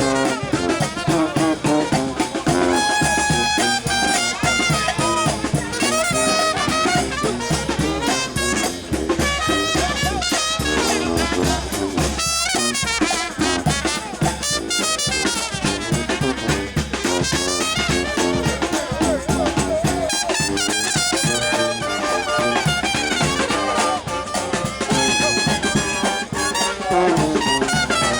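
Brass band playing a New Orleans second-line tune without a break: trumpets, trombones and saxophone over a steady drum beat.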